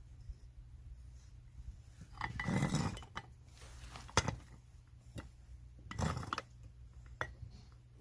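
Metal parts being handled and set down, clinking and clattering. A longer clatter comes about two seconds in, then a sharp knock, another clatter and a few lighter clicks.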